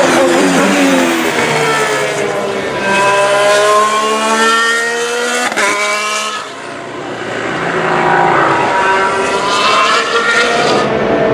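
Formula 1 cars' 1.6-litre turbocharged V6 hybrid engines at racing speed. The engine pitch drops as one car passes, then climbs steeply twice as cars accelerate, with a sharp break in the pitch just after halfway.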